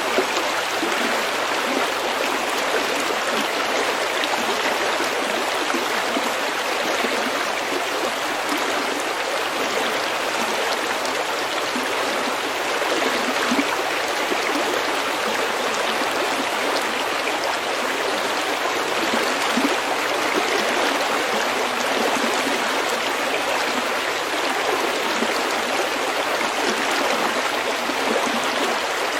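Small stream running steadily over stones, an even rushing and babbling of water.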